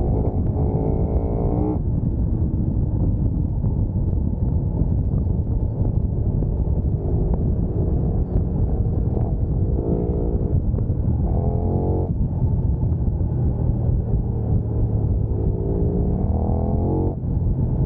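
Sport motorcycle engine accelerating hard. Its pitch climbs through the revs four times, each climb cutting off sharply at a gear change, over a steady low rumble.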